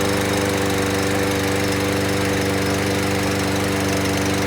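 Briggs & Stratton lawn mower engine running steadily at a constant speed, having started after its no-start was fixed by restoring fuel flow to the plastic carburetor.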